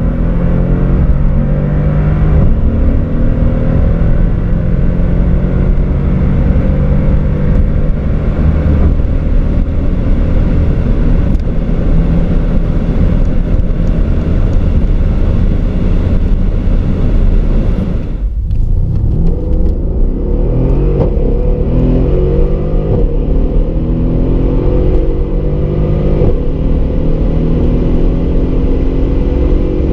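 2014 Mercedes SL 63 AMG's twin-turbo V8 under full-throttle acceleration, heard from inside the cabin. Its pitch climbs through each gear and drops back at every upshift. About eighteen seconds in the sound briefly falls away, then the engine pulls hard and climbs again.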